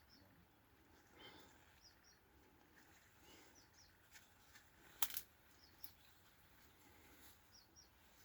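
Near silence, with faint, short bird chirps in pairs every few seconds and a single sharp click about five seconds in.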